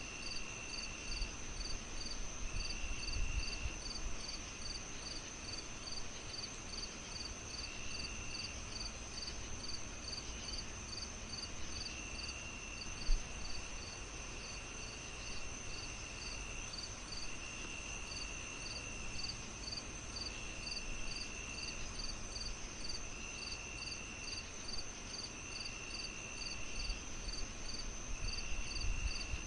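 Crickets chirping steadily, about two or three chirps a second, with a second insect trilling in bursts of about a second every couple of seconds, over a low crackling fire with one sharp pop near the middle.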